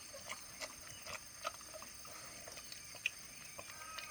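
Kai Ken dog eating from its bowl: faint, irregular clicks and small slurping sounds of chewing and lapping milk-soaked food.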